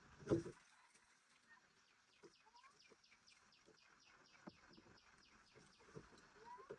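Faint outdoor ambience with a fast, even run of short high chirps and a few small rising bird calls; a brief louder low sound comes about a third of a second in.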